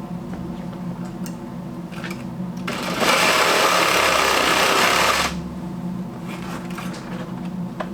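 Electric jigsaw cutting a board. It starts about three seconds in, runs for about two and a half seconds and stops suddenly.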